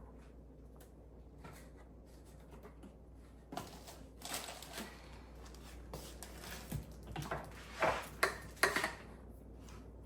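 Kitchen handling noise: a scatter of light knocks, clinks and rustles as containers and utensils are handled to add dry baking ingredients. The sounds come about halfway in, and the loudest knocks fall near the end.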